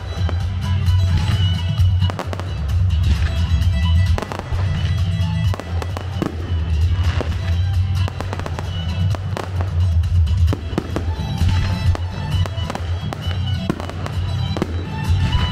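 Fireworks bursting in quick succession, many sharp bangs and crackles, over loud music with a heavy bass.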